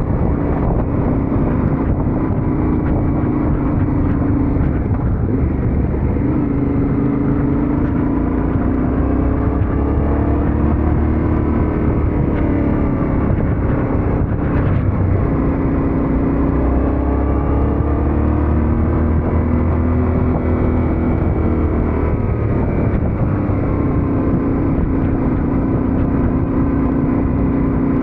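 Yamaha Ténéré 700's parallel-twin engine running under way, its pitch rising and falling several times with throttle and gear changes, over a steady rush of wind and road noise.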